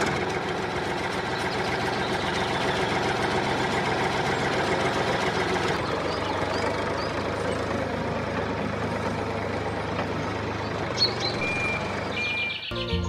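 Tractor engine running steadily, with two short high beeps about eleven seconds in.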